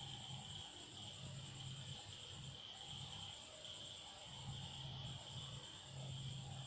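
Faint steady high-pitched insect trilling, with a low hum that comes and goes every second or so.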